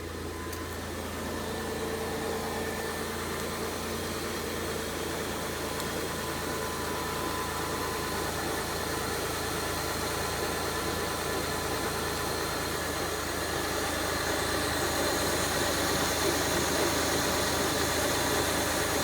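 A 2002 Kia Sedona's 3.5-litre V6 idling steadily, growing gradually louder.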